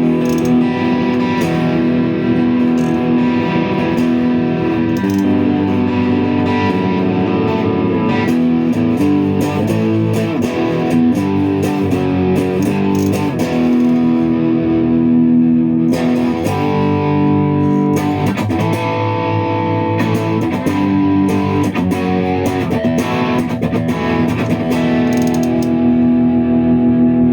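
Electric guitar, a Stratocaster with a Tonerider Birmingham pickup, played through a VLA Green Spirit effects pedal into the clean channel of a Mesa Boogie Rectifier amp. It plays strummed chords and single-note lines with a slightly distorted tone, letting chords ring out between changes.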